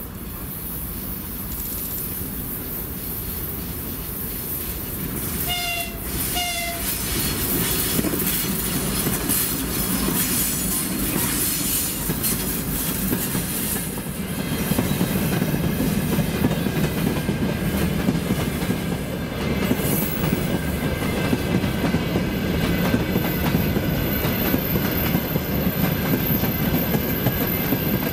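2M62U twin-section diesel locomotive approaching with a freight train, engines running, sounding two short horn blasts about five and a half seconds in. The freight wagons then roll past close by, louder, their wheels clicking over the rail joints with a faint squeal on the curve.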